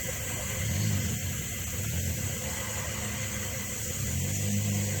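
A car engine running with a steady low rumble, getting a little louder about four seconds in.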